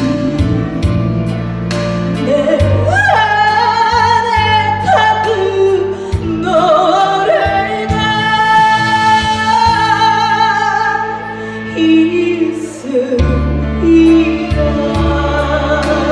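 A singer performing a song with long held, wavering notes over a backing track with a bass line and a steady beat.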